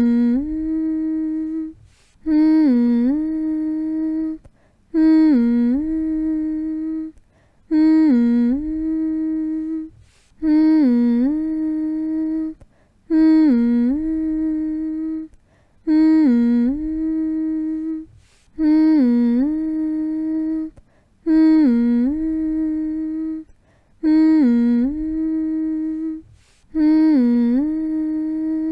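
A person's voice humming a low "mm" over and over, about eleven times. Each hum begins with a brief dip in pitch, then holds one steady note for about two seconds before breaking off for a short breath-length pause.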